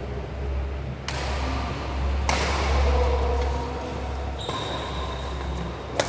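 Badminton play in a sports hall: a sharp single racket hit near the end over a steady low rumble and echoing hall noise.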